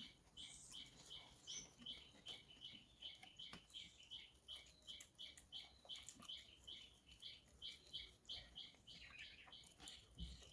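A small bird chirping steadily in the background, short high chirps repeated about three times a second, with faint scattered clicks of eating underneath.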